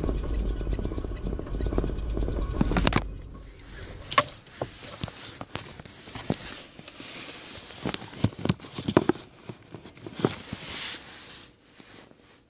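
A small 1.2-litre petrol car engine runs, then cuts out abruptly about three seconds in. Scattered clicks and knocks follow over a faint hiss.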